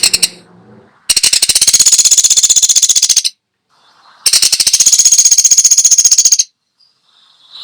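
Woodpecker giving fast, loud rattling calls: two runs of about two seconds each, separated by a short pause, after a brief sharp note at the start.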